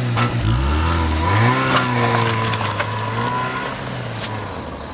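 Car engine revving and pulling away; its pitch rises about a second and a half in, then the sound fades as the car drives off.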